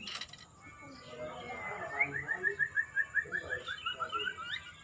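Murai songbird singing: a quick run of about fifteen repeated short notes, roughly six a second, dipping slightly and rising again at the end. Softer scattered chirps come before it.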